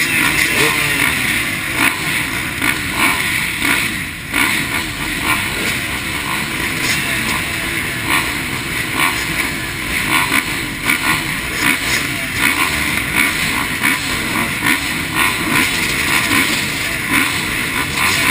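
Several motocross bikes racing, their engines revving up and down and overlapping without a break.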